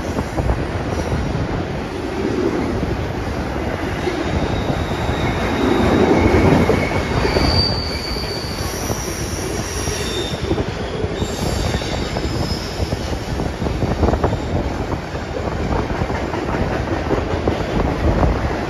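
Double-stack intermodal freight train rolling past, its cars and wheels giving a steady rumble. In the middle come several brief high squeals from the steel wheels as the cars round the curve.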